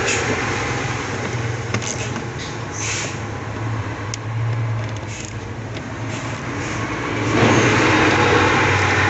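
Outdoor street traffic noise with a steady low hum, growing louder about seven seconds in as a vehicle goes by.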